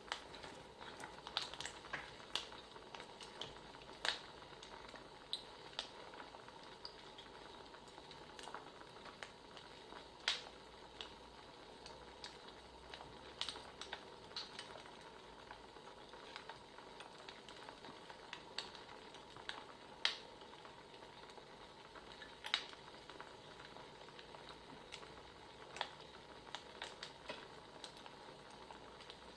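Wood fire crackling: a faint steady hiss with irregular sharp pops and snaps every second or so, a few louder ones standing out.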